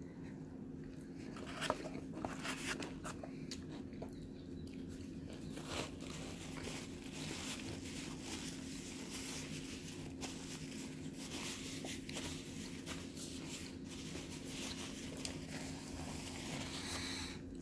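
A person chewing a mouthful of chicken tender sandwich, with faint scattered mouth clicks and crunches, over a steady low hum. Near the end, a paper napkin rubs across the mouth.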